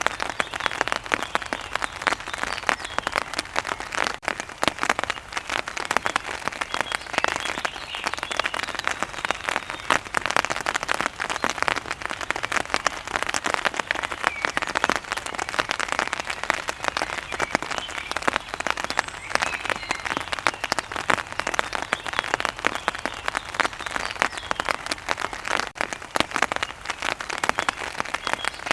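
Steady heavy rain: a dense, even patter of drops striking a hard surface.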